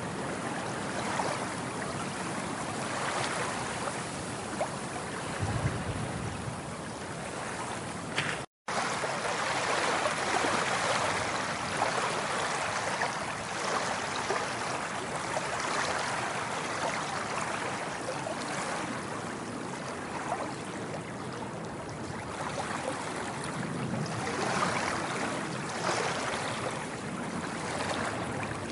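Ocean waves washing in and drawing back, a steady rush of surf with slow swells every few seconds. The sound cuts out completely for a moment about eight seconds in, then resumes.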